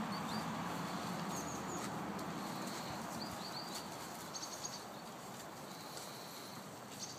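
Small birds chirping: a few clusters of short, high, quickly repeated notes over a steady background hiss.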